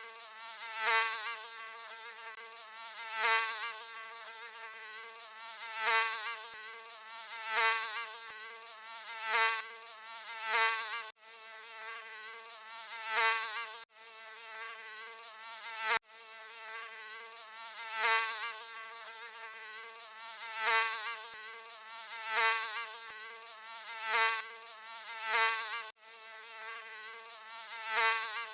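Mosquito buzzing: a high, wavering whine that swells and fades every second or two, as if flying close past the ear. There are a few abrupt, momentary breaks where the recording loops.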